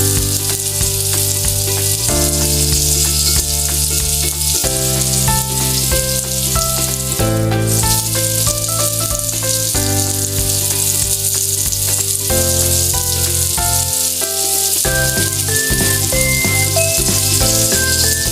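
Maggi balls frying in hot oil, a steady sizzle, under background music with held notes.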